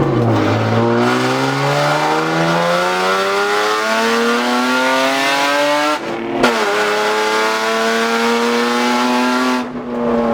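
Straight-piped BMW E36 exhaust under hard acceleration: the engine note climbs steadily for about six seconds, drops at a gear change with a sharp crack, then climbs again before falling off as the throttle is lifted near the end. The note is very loud and raspy, with no muffling in the exhaust.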